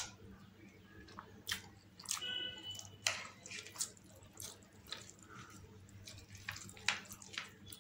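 Close-up wet chewing and slurping of masala Maggi instant noodles: irregular smacks and sharp mouth clicks, over a steady low hum.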